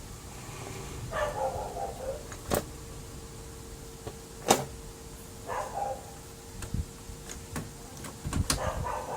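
Plastic printer parts of a Brother laser printer being handled and fitted back together: several sharp clicks and snaps, with short scraping squeaks of plastic rubbing on plastic. A faint steady hum sets in about two seconds in.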